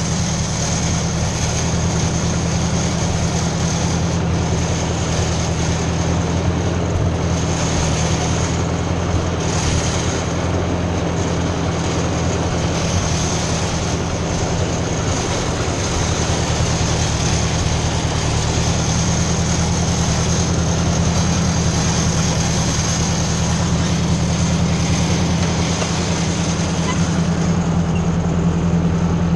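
Ford 600 tractor engine running steadily at a constant speed, a continuous low drone.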